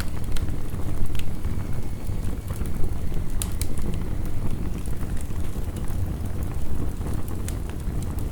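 Heavy rain as a steady low rumbling wash, with a wood fire crackling over it in sparse, sharp pops.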